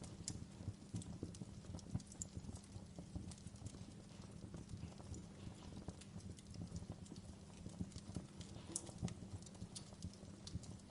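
Wood fire crackling in a fireplace: irregular small pops and snaps over a low steady rumble.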